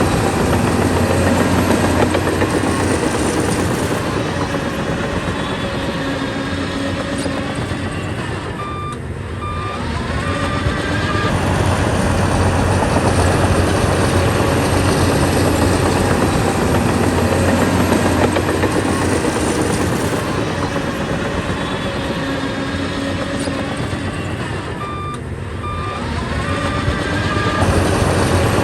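Heavy diesel engine of a bulldozer working, its level rising and falling twice. A short run of reverse-alarm beeps sounds about a third of the way in and again near the end.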